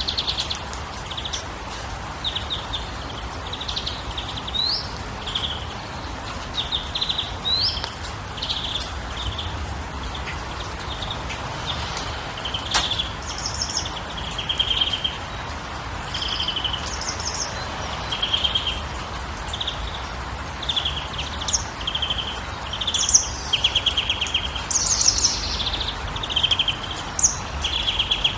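Small birds chirping and trilling over and over in short, rapid phrases, some sweeping upward, over a steady low background rumble. There is one sharp click about thirteen seconds in.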